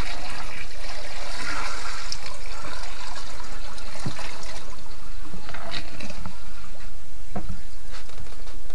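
Water poured from a bucket into a sink, rushing down the newly reconnected drain, which drains quickly. A few short knocks come partway through.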